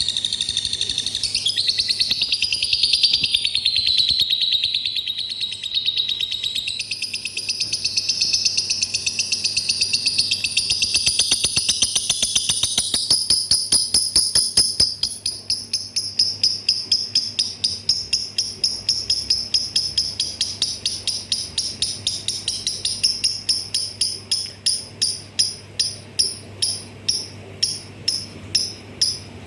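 Lovebird singing: a long, unbroken high-pitched chattering trill that turns about halfway into a fast run of repeated sharp chirps, slowing to about two or three a second.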